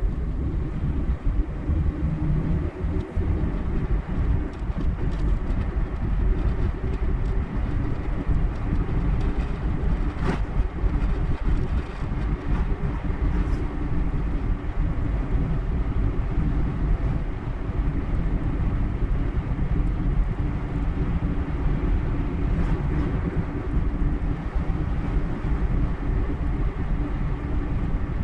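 Car driving at steady speed: continuous low tyre and road rumble with the engine's drone, and a few faint ticks.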